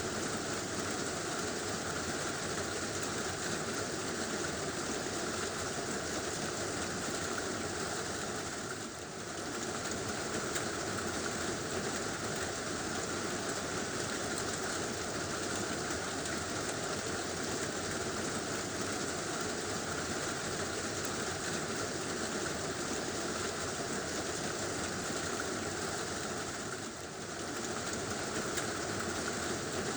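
Heavy rain falling steadily on a tin roof, a dense unbroken patter. It eases for a moment twice, about nine seconds in and again near the end.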